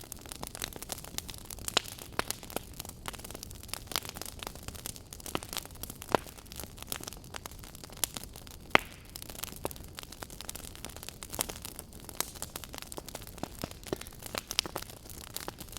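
Firewood burning in a campfire: irregular crackles and sharp pops over a steady low hiss, with one louder pop about nine seconds in.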